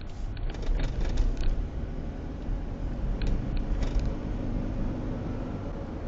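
Low road rumble of a moving car heard through a dash camera, with a few short clicks and knocks in the first second and a half and again a few seconds in.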